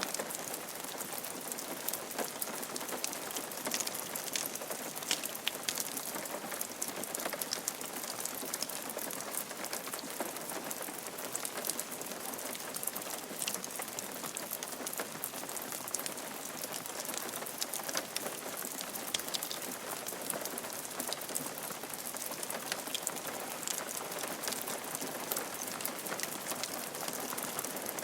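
Steady rain falling on a roof, dense patter of individual drops tapping over an even hiss.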